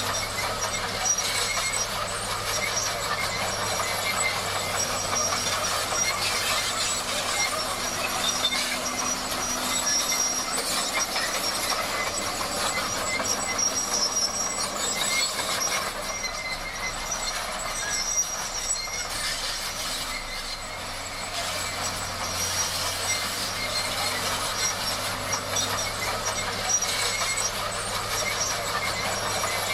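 Bulldozer working: a steady engine drone under the metallic clatter and squeal of steel crawler tracks, with a thin high whine held throughout.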